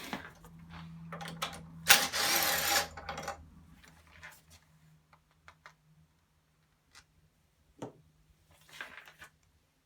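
Socket ratchet clicking in a fast burst about two seconds in as bolts on an outboard motor's exhaust housing are tightened, followed by scattered clicks and knocks of tools on metal. A faint steady hum runs underneath.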